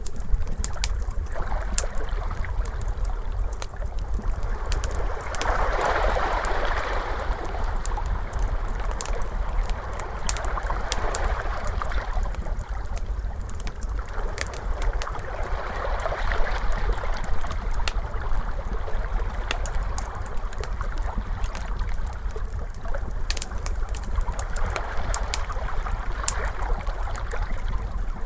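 Crackling fire, with sharp pops and crackles all through, mixed with ocean waves washing in, a swell rising and falling about every five seconds, over a steady low rumble.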